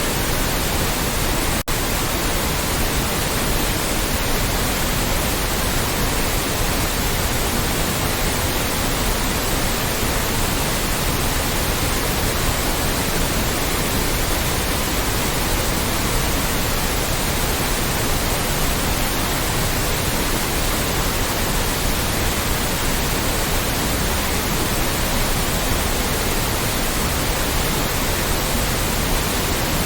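Loud, steady white noise: an even, featureless hiss spread across the whole range, broken once by a split-second dip in level near the start.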